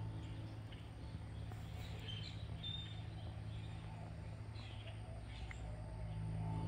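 Outdoor ambience: a few faint, short bird chirps, clustered about two to three seconds in, over a steady low hum.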